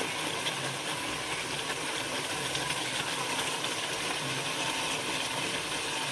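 Raw chicken pieces sizzling steadily in hot oil and fried masala in a metal pot as they are stirred with a steel spoon, the meat just added to the hot masala to brown.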